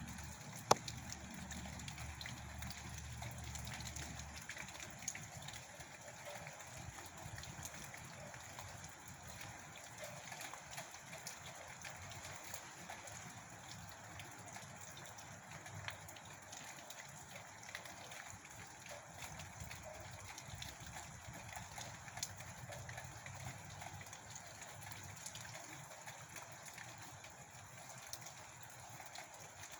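Wind-driven outdoor weather noise: a steady hiss with scattered small ticks and a few sharper clicks. A low rumble of wind in the first few seconds drops away about four seconds in.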